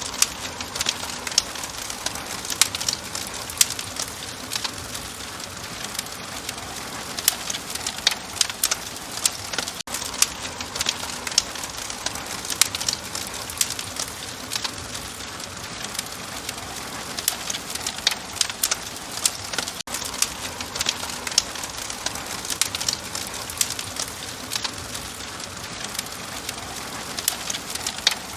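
Wood fire crackling in a hearth: frequent sharp pops and snaps over a steady hiss, with brief dropouts about every ten seconds.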